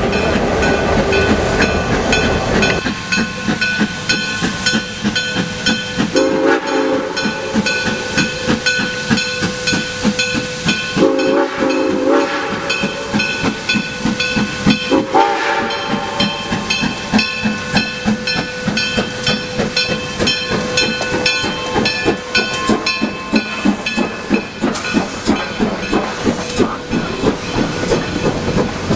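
USATC S160 2-8-0 steam locomotive working past with steam hissing and rapid, regular exhaust beats. Its whistle sounds in short blasts about six and eleven seconds in, and again about fifteen seconds in.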